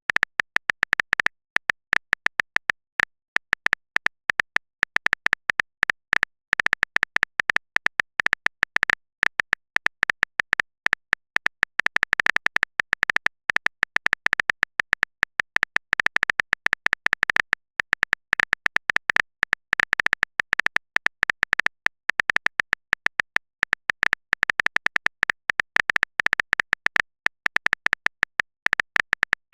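Typing sound effect: a fast, uneven run of short clicks with brief pauses between bursts.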